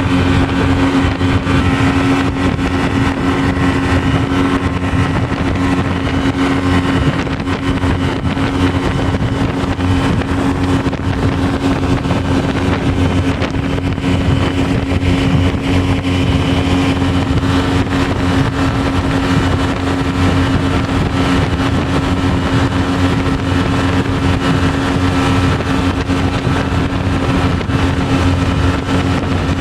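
Speedboat engine running steadily at cruising speed, a constant loud drone with an even rush over it.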